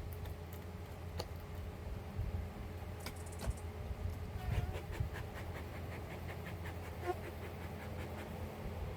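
Honeybees humming steadily around an opened hive in winter, agitated by the inspection. About halfway through comes a run of quick scraping clicks, about five a second, that fades out, from the hive's woodwork being worked.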